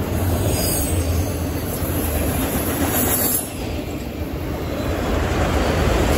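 Autorack freight cars rolling past at close range: a steady rumble and clatter of steel wheels on the rails, with a short dip in loudness about halfway through.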